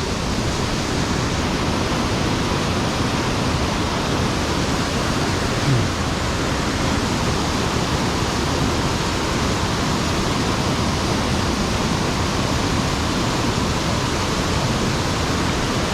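Steady rush of a mountain stream's water pouring over a sabo (erosion-control) dam, an even, unbroken roar of falling water.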